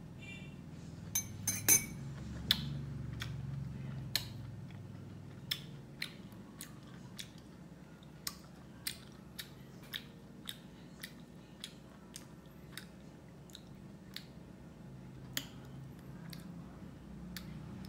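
A person chewing pineapple close to the microphone: a string of sharp wet mouth clicks and smacks, about two a second, loudest in the first couple of seconds. A low steady hum runs underneath.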